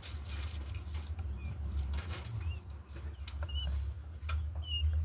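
Quail giving short high peeps, about one a second in the second half, among scattered light clicks of scratching or pecking, over a steady low hum.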